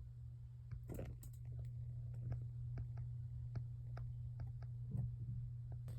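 Light, irregular plastic clicks and taps of Lego pieces being handled, over a steady low electrical hum.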